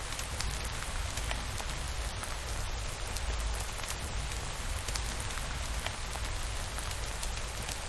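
Steady rain with scattered sharp drop ticks over a constant low rumble.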